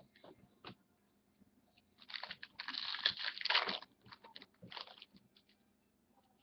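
Trading card packs and cards being handled. A crinkling, crunching rustle of wrapper and card stock starts about two seconds in and lasts about two seconds, with a shorter burst near the end and light taps and clicks around it.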